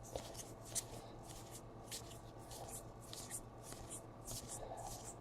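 Faint handling of baseball trading cards: cards sliding against one another as a stack is flipped through, heard as a string of short, soft, irregular swishes.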